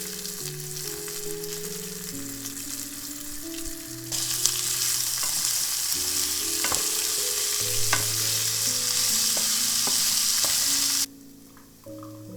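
Food sizzling in a frying pan, getting louder about four seconds in, with a few clicks of a utensil stirring. The sizzle cuts off suddenly near the end.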